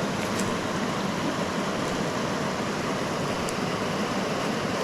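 Creek water running steadily over rocks, with a few faint small clicks.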